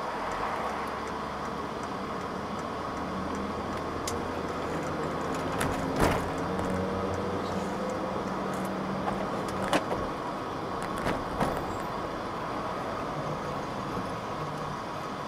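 Cabin sound of a 1989 Mercedes 300 TE 4MATIC: its engine runs at idle, then pulls away gently, the note rising slightly as the car gets going. A few sharp knocks come partway through, the loudest about six seconds in.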